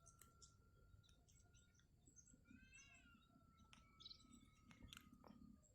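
Faint scattered clicks and scrapes from a grabber tool working inside a kingfisher nest burrow, with one brief squeaky chirp about three seconds in and a faint steady high whine underneath.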